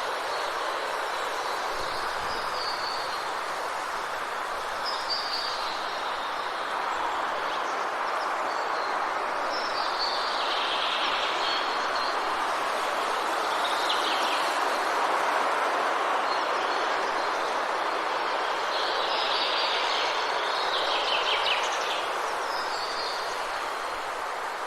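Forest ambience: a steady, even rushing noise, with small birds chirping high and briefly every few seconds, in a denser flurry of calls near the end.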